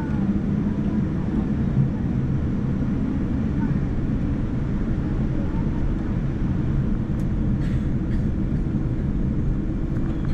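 Steady low rumble of a Boeing 787-9's engines and airflow, heard from inside the passenger cabin.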